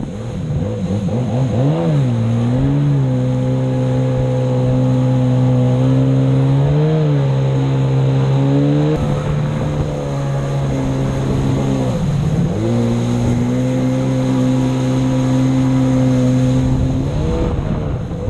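Jet ski engine running hard at a steady high pitch, briefly easing off and climbing back up three times.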